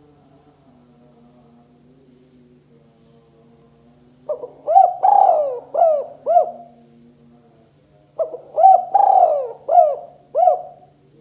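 Spotted dove (tekukur) cooing in two phrases of several arching coo notes each. One phrase starts about four seconds in and the other about eight seconds in, over a faint steady hum.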